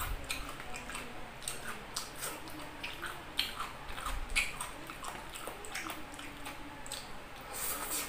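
Close-up eating sounds of a person chewing with an open mouth: wet chewing and a scattered run of short lip-smacking clicks.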